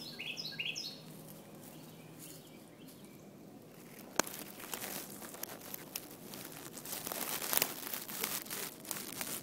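A few short, high chirps from swallows in the first second, each falling in pitch. About four seconds in comes a sharp click, then irregular crackling and rustling, like handling noise on the microphone.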